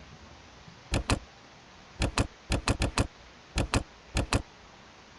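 Computer mouse clicking: about a dozen sharp clicks, mostly in quick pairs like double-clicks, with a run of four close together midway.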